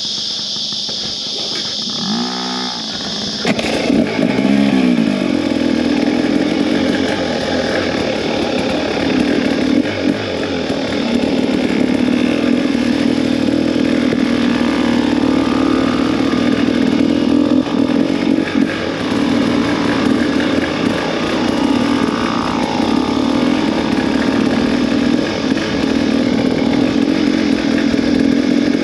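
Two-stroke dirt bike engine revving up a few seconds in, then running steadily under way.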